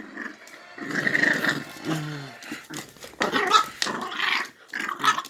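A puppy growling in short, rough bursts, as in play over a bone it is being teased with.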